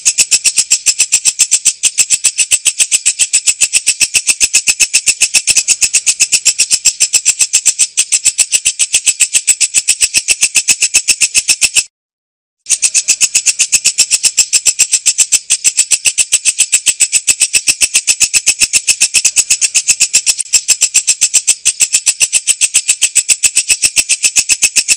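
Walang kecek katydid stridulating: a steady, rapid, high-pitched train of dry clicks, about six a second. It breaks off for under a second about halfway through, then carries on.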